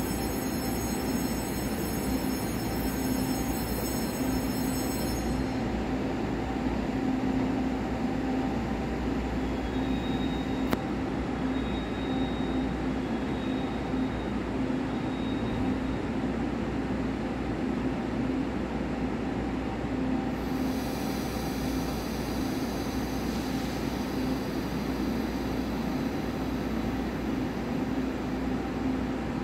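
Steady hum of a passenger train standing at a platform inside an underground station, a constant low drone under an even hiss. A faint high hiss drops out a few seconds in and comes back about two-thirds through, with one sharp click near the middle.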